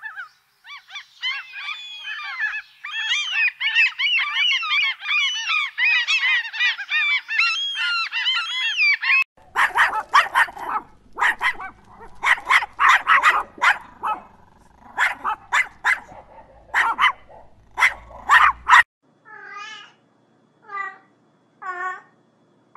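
Gulls calling, many shrill overlapping calls at once, for the first nine seconds or so; then a dog barking in quick clusters of short barks; then, near the end, a cat giving several short meows about a second apart.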